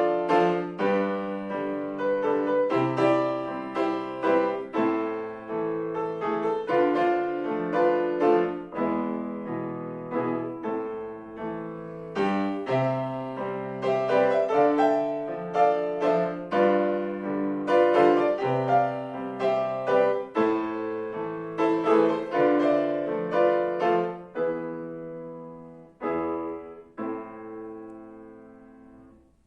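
Solo piano playing a melody over chords; the notes thin out near the end and a last chord rings away into silence.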